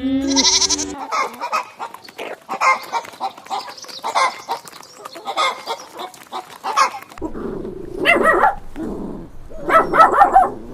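Animals calling: a run of many short, quick calls for several seconds, then three louder bouts of calls near the end.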